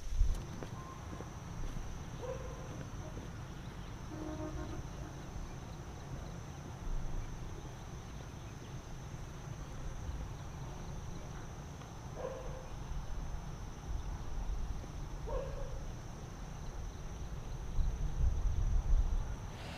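Insects chirring in one steady, unbroken high-pitched drone that cuts off suddenly near the end, over a low rumble, with a few brief faint calls.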